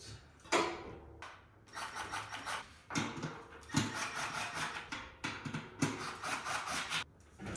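Repeated scraping and rubbing from hands working on a bicycle tire, in irregular strokes of about half a second to a second each.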